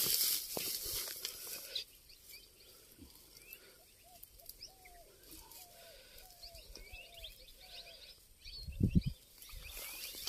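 Grass rustling and handling noise at first, then a bird calling in a run of short repeated chirps with fainter high chirps. A loud low thump with rustling comes about nine seconds in, while the hooked snakehead is being landed at the water's edge.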